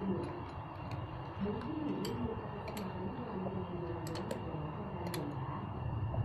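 Scattered light clicks and taps of hand tools and small parts being handled during work on a motorcycle, irregularly spaced, with a few close together about four seconds in. Faint low murmuring runs underneath.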